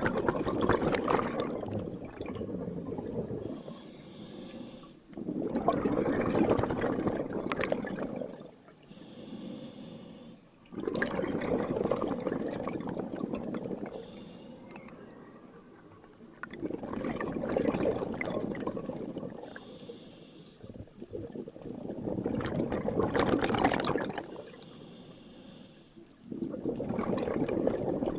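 Scuba diver breathing through a regulator underwater: a short hiss on each inhale through the demand valve, then a long bubbling rush as the exhaled air escapes. The cycle repeats about every five seconds.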